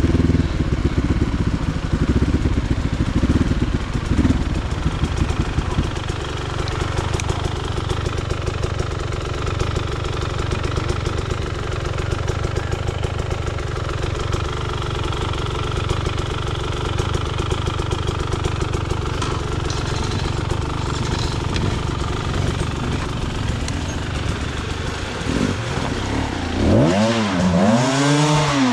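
Motorcycle engine running, uneven for the first few seconds and then steady, with two quick revs up and back down near the end.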